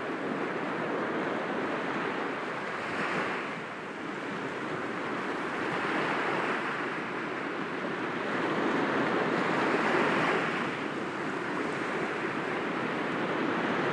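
Sea waves breaking gently against rocks, a continuous wash of surf that swells and eases, with a stronger surge about three seconds in and a longer one past the middle.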